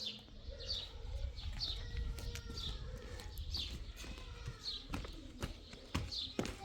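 A bird chirping repeatedly, short high chirps about once a second, over a low rumble, with a few sharp clicks near the end.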